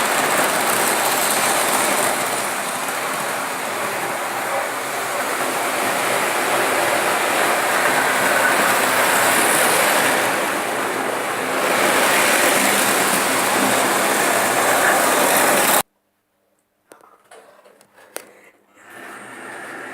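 Märklin model train running on its track: a steady noise that cuts off suddenly about three-quarters of the way through, followed by a few faint clicks.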